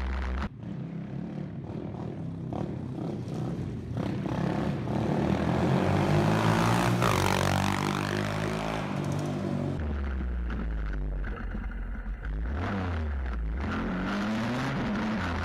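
Stomp WPB 125 pit bike's single-cylinder four-stroke engine heard from on the bike while riding. The revs rise to their loudest about six to eight seconds in, drop back, and rise and fall again near the end, over wind and road noise.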